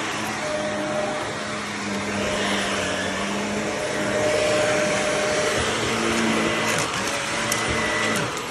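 Shark vacuum cleaner running on carpet, a steady motor whine with a few sharp clicks in the last couple of seconds. Right at the end the motor starts to cut out as the vacuum stops working.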